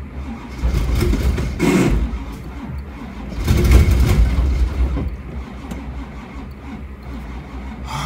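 Cold, chokeless carbureted V8 of a 1985 Camaro Z28 cranking and sputtering, surging loudly twice, about two and four seconds in, without catching: a cold start failing in freezing weather. Heard from inside the car's cabin.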